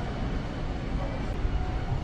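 A running car's engine compartment: a steady mechanical running noise with a low rumble and faint steady tones.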